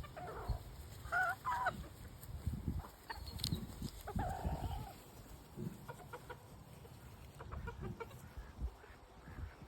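Chickens clucking, with a few short calls about a second in and a longer call around four seconds, over low thumps and rustling.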